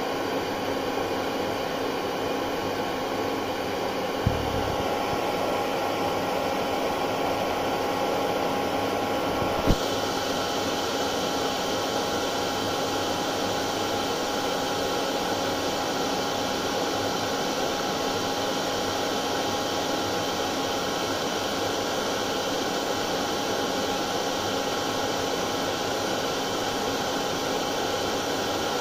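Hair dryer running steadily: an even blowing noise with a steady motor whine. Two faint clicks, about four and ten seconds in.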